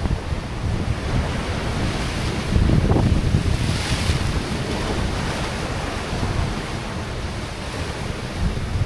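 Sea waves washing onto shore rocks under steady wind buffeting the microphone, with a louder surge of wind and surf about two and a half seconds in.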